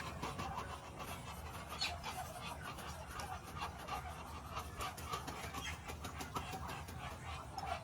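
A flock of Muscovy ducks making many short, quiet, overlapping calls.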